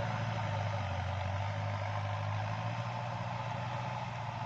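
Kubota tractor's diesel engine running steadily under load, driving a rotary tiller through wet, muddy paddy soil.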